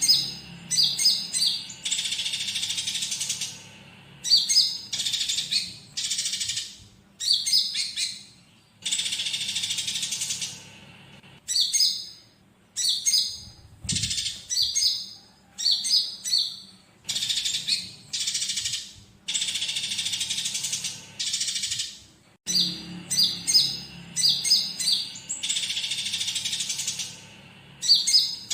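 Konin (kolibri ninja) birdsong with fighting tree-sparrow chatter mixed in, as a songbird training recording. Clusters of sharp, high chirps alternate with raspy, buzzing phrases about a second or two long, repeating every few seconds.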